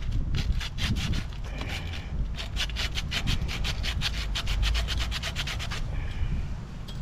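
Copper pipe being scrubbed with an abrasive to clean it for soldering. A few scattered strokes come first, then a fast, even run of back-and-forth scrapes, about eight or nine a second, from about two seconds in until near the end.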